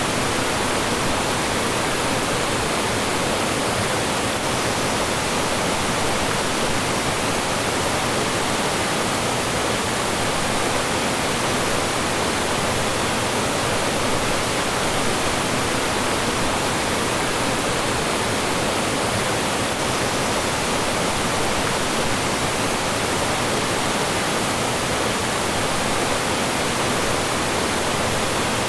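Mountain stream rushing and falling over rocks, a steady full wash of water noise.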